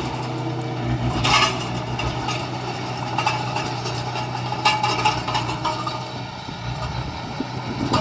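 Heavy diesel construction machine running steadily, with a few sharp metallic clanks over it, the loudest about a second in and again near the middle.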